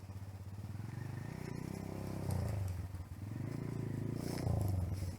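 Dirt bike engine running, the revs rising and falling twice.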